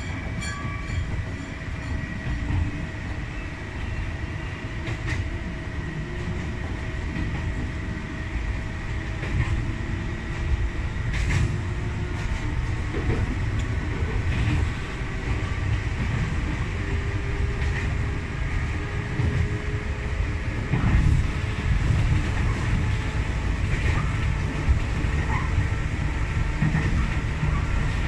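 Electric train running along the track, heard from the driver's cab: a steady rumble of wheels on rail with a faint steady whine and a few sharp clicks over rail joints, growing slightly louder toward the end.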